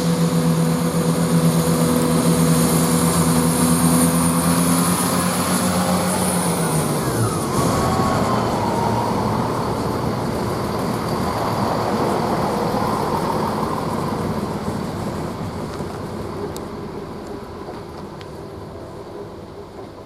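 CrossCountry Class 170 Turbostar diesel multiple unit pulling away: its diesel engines run under power with a steady note that drops in pitch about seven seconds in, then the train's noise fades as it leaves.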